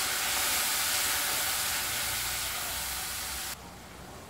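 Pickle masala with vinegar sizzling and hissing steadily in hot oil in a kadai. It drops off suddenly about three and a half seconds in.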